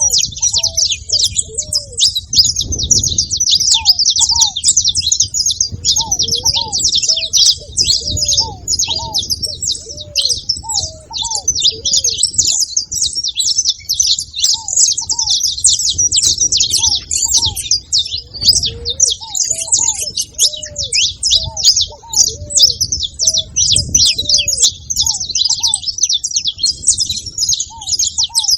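Several saffron finches chirping and singing together in a dense, continuous jumble of high notes. A lower series of short, arched call notes repeats throughout.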